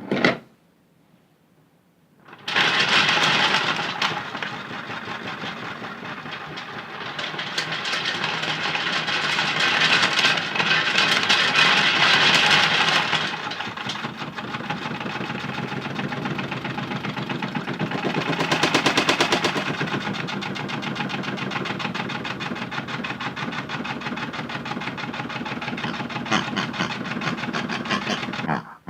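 Modified toy washing machine running, its small motor turning the drum while toys inside rattle in a fast, continuous clatter. The sound starts about two seconds in, swells louder a few times, and stops just before the end.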